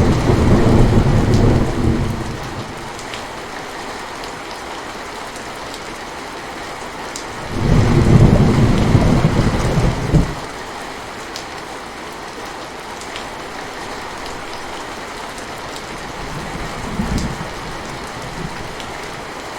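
Steady heavy rain falling, with low rolls of thunder: one at the start, a louder one lasting a few seconds near the middle, and a fainter one near the end.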